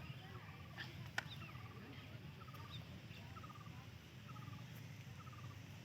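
Faint outdoor ambience in which a small animal's short trilled call, five or six quick notes, repeats about once a second over a low steady rumble. A single sharp click comes about a second in.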